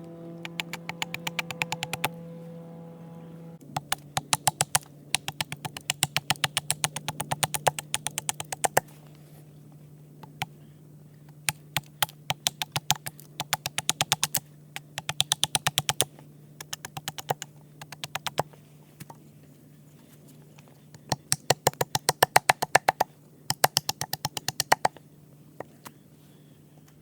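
Wood carving: bursts of quick sharp taps, about seven a second, each run lasting one to three seconds, with pauses between. A steady low hum runs underneath.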